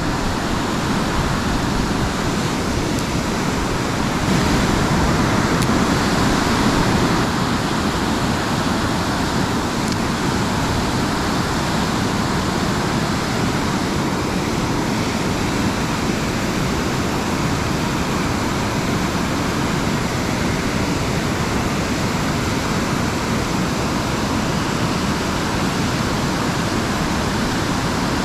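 Steady rush of fast-flowing creek water, an even hiss and roar that swells slightly a few seconds in.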